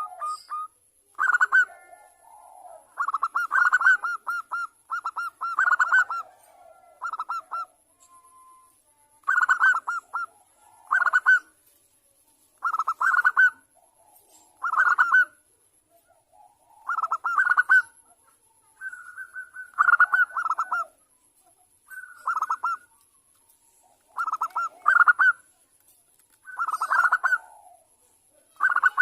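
Zebra dove (perkutut) cooing: short, rapid, pulsed coo phrases repeated every second or two. It is a female calling to a male.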